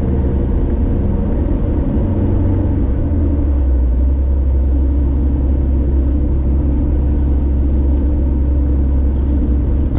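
Car driving on a highway: a steady low rumble of road and engine noise. The low hum deepens and grows stronger about three and a half seconds in.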